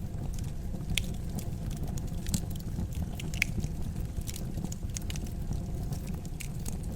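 Wood fire crackling in a fireplace: a low steady rumble of burning with irregular sharp pops and snaps, the loudest about a second in and around two and a half and three and a half seconds in.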